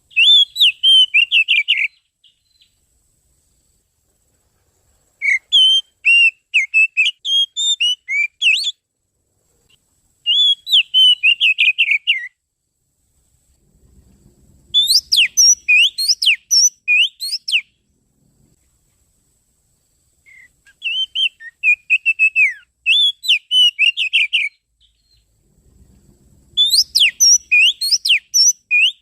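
Oriental magpie-robin (kacer) song played as a lure call: six bursts of rapid, varied whistles and chirps, each two to four seconds long, with silent gaps between them.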